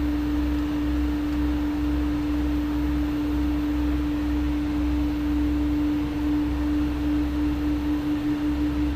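Steady cockpit noise of a Learjet 60XR in descent: an even rush of airflow and engine noise over a low rumble, with a strong single-pitched hum held at one level throughout.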